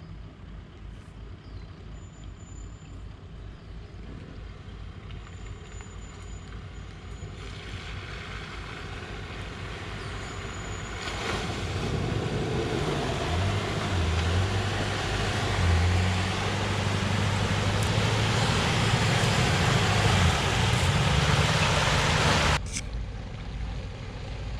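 Four-wheel-drive vehicle driving with a steady rushing noise that grows louder through the middle. The engine note rises and falls as it is revved harder, then the sound cuts off suddenly near the end.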